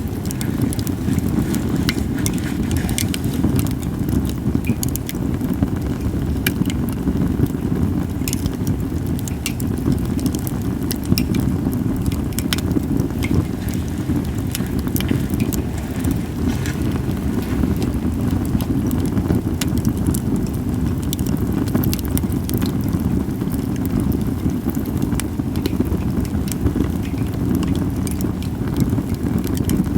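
Japanese cedar (sugi) campfire crackling, with irregular sharp pops and snaps over a steady low rumble.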